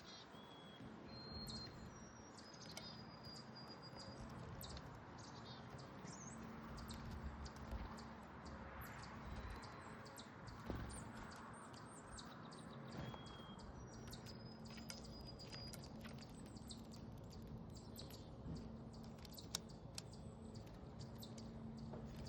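Small backyard songbirds chirping faintly, with scattered short high chirps and a few brief whistled notes over faint steady background noise and light clicks.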